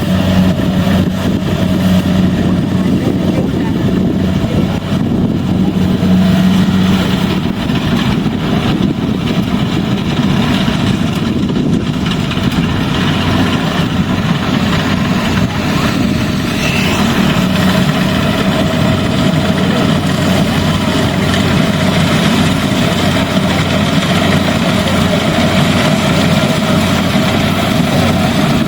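Rice combine harvester running steadily, its engine holding an even, unbroken hum.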